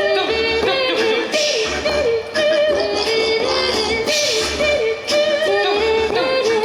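A small a cappella choir singing a song in harmony: high voices carry the melody over a low, pulsing bass part.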